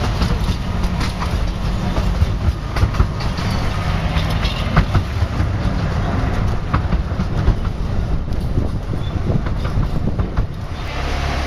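A 15-inch gauge miniature railway train running, with a steady rumble and its wheels clacking over the rail joints. The sound turns duller near the end.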